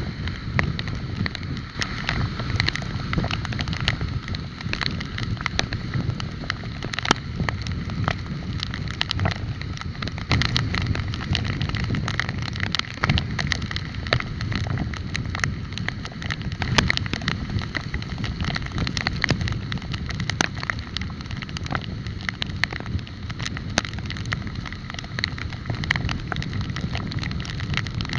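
Riding noise from a moving bike: a steady low wind rumble on the microphone, with frequent sharp rattles and clicks throughout.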